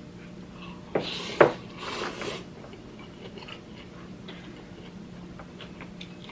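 Someone eating ramen: a sharp clink and a noisy slurp about a second in, then quieter chewing over a low steady hum.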